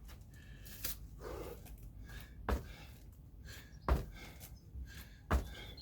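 Feet landing on the floor during kettlebell jump squats, four thuds about a second and a half apart, with heavy panting between the jumps.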